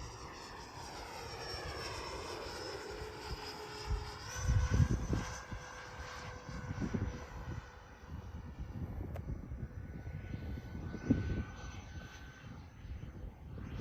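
Twin 70mm electric ducted fans of an RC B-2 Spirit jet whining on a pass, the pitch falling over the first few seconds as the model goes by and then holding steady. A low rumble comes through about four to five seconds in.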